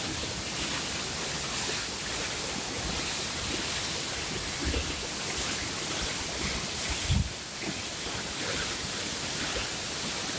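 Water released through the Lower Manair Dam rushing and pouring in a steady, loud hiss. A brief low buffet of wind on the microphone comes about seven seconds in.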